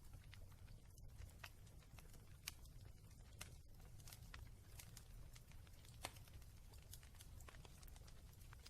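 Fireplace fire crackling faintly: irregular small pops and snaps, a couple of sharper ones, over a steady low rumble.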